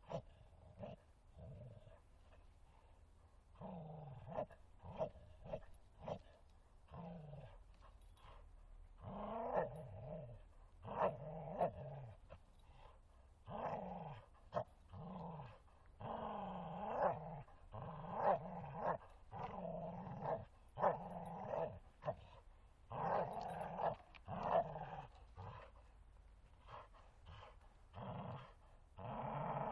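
Bull terrier growling during play, in repeated rough bouts a second or two long with short pauses between them.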